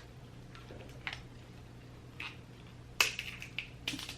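Close-up eating sounds from a seafood boil: scattered sharp cracks and smacks of shellfish shell and chewing, with the loudest cluster about three seconds in. A steady low hum runs underneath.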